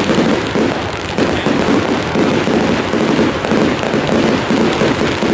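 Fireworks display going off continuously: a dense, steady run of crackles and pops with no pause.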